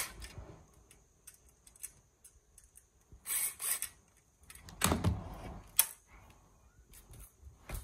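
Parts and tools being handled during assembly of a roof luggage basket: scattered sharp clicks and clatter, two short scraping noises a little after three seconds, and a heavier thump about five seconds in.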